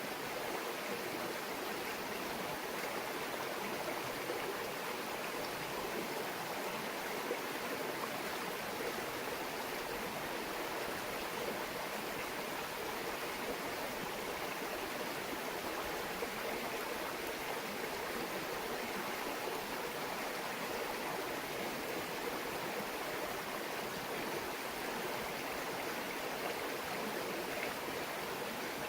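A shallow mountain stream babbling and flowing steadily over rocks, a constant even rush of water.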